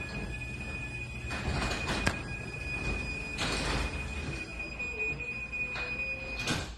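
LiftMaster garage door opener running the door along its track: a steady rumble with a thin, steady high squeal over it, swelling louder a few times.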